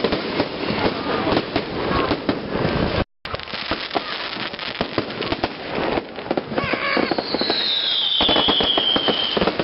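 Fireworks display going off: rapid crackling and popping bangs throughout, with a whistling firework falling in pitch over the last few seconds. The audio cuts out briefly about three seconds in.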